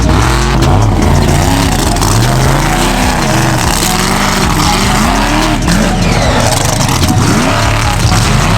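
Monster truck engine revving loudly, its pitch swinging up and down over and over, about once a second.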